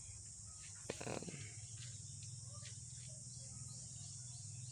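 Faint outdoor background: a steady insect hiss and a low hum, with a few light clicks and small bird chirps.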